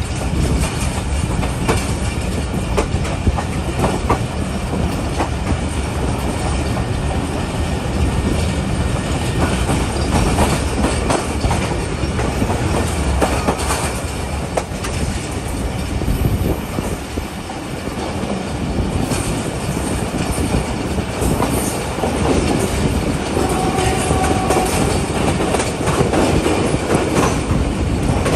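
Passenger train running along the line: a steady rumble of wheels on rails, with frequent clicks and clatter over the rail joints.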